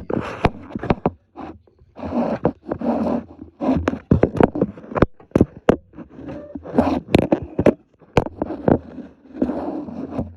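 Tools and parts being handled under a truck dashboard: many sharp metal clicks and knocks with scraping and rustling between them, as a hose fitting is worked loose with a wrench.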